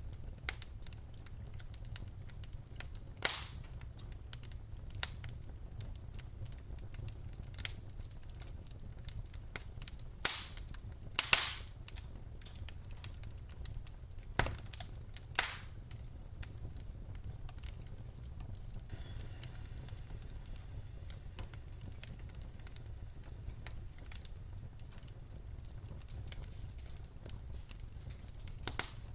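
Wood fire in a fireplace crackling over a steady low rumble of the flames, with scattered sharp pops, a few louder ones in the first half.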